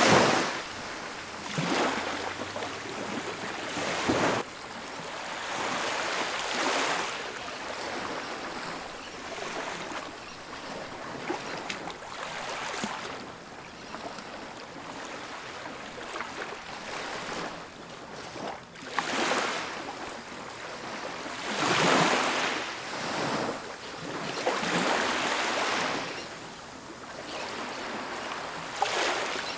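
Ocean waves breaking and washing up a beach: a steady hiss of surf that swells into a surge every few seconds, loudest right at the start and again about two-thirds of the way through.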